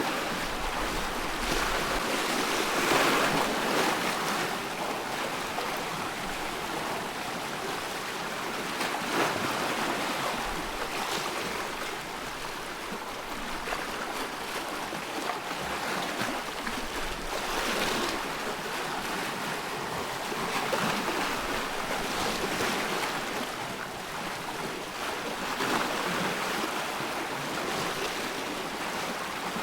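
Loch water lapping and splashing in small waves, with wind; the wash swells and eases every few seconds.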